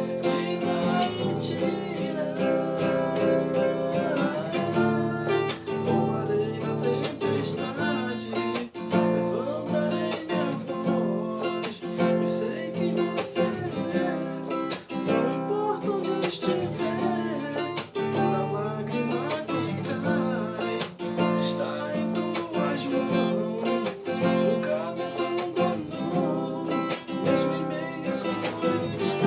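Music: acoustic guitar strumming and picking, with a singing voice at times.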